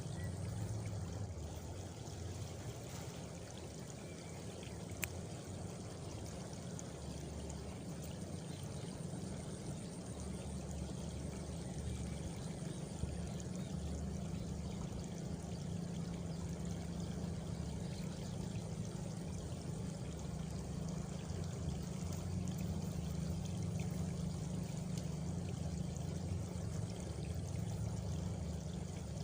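Water flowing steadily, with a faint high insect trill for a few seconds about a third of the way in.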